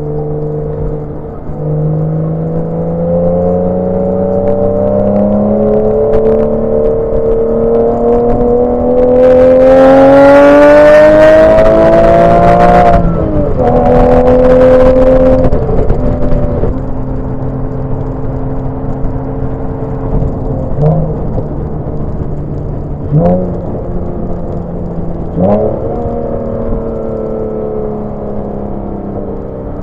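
Porsche 987 Boxster's flat-six engine with VarioCam variable valve timing, pulling hard with the revs climbing for about ten seconds before a gearchange, pulling again, then settling to a steady run. Three short rev blips come later on.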